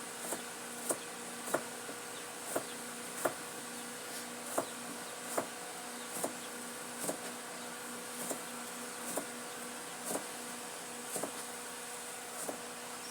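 A steady electrical-sounding hum with sharp, fairly regular ticks, about one and a half a second.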